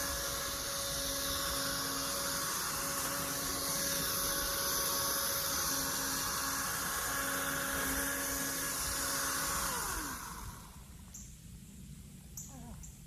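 Toro chainsaw running at a steady full speed, then let off about ten seconds in: the motor's whine drops in pitch as it winds down and stops. A few faint clicks follow.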